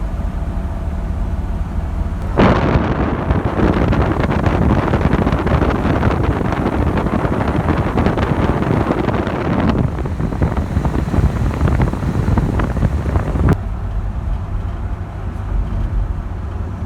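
1957 Ford Thunderbird V8 under way, heard from the cabin: a steady low rumble. About two seconds in a loud rush of engine and wind noise comes in, lasts about eleven seconds and cuts off suddenly.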